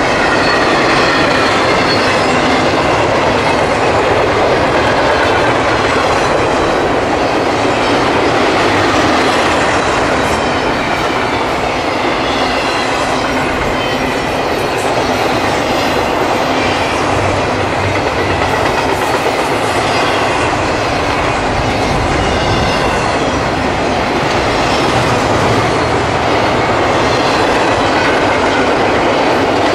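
A CSX intermodal freight train's cars rolling steadily past, with a continuous loud rumble, the clickety-clack of wheels over rail joints, and faint squealing from the wheels against the rail.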